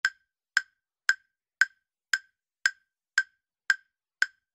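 Countdown-timer ticking sound effect: short, sharp wooden-sounding ticks, evenly spaced at about two a second, marking the time left to answer a quiz question.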